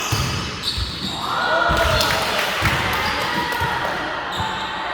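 A volleyball being struck and thudding several times, with players' voices calling out in between.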